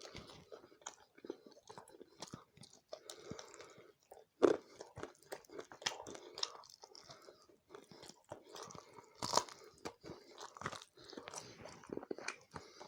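Close-miked chewing and biting of a person eating chicken curry with roti and rice: a steady run of sharp mouth clicks and smacks, with two louder bites about four and a half and nine seconds in.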